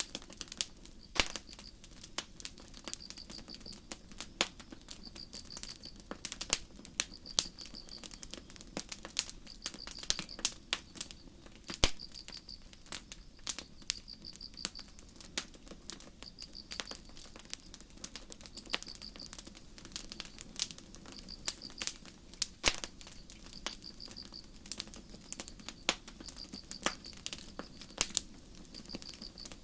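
Campfire crackling with irregular sharp pops, over a cricket chirping in short pulsed trills about once a second.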